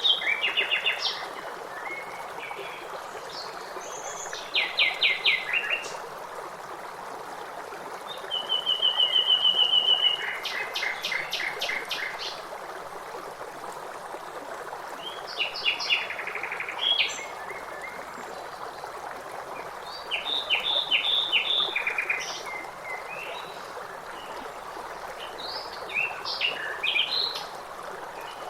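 A songbird chirping and trilling in short, rapid phrases every few seconds over the steady rush of a waterfall.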